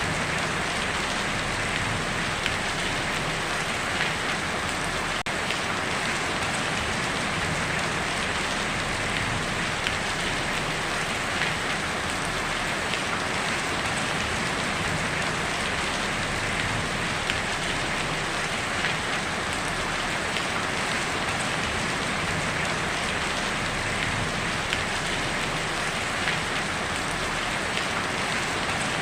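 Heavy rain falling steadily on a tin roof: a dense, even patter of drops on sheet metal, with scattered louder drop hits.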